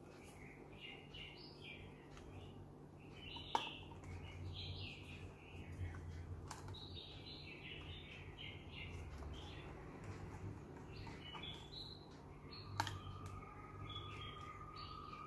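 Birds chirping in the background while a plastic snorkel mask and snorkel are handled, with two sharp plastic clicks, one about three and a half seconds in and one near the end.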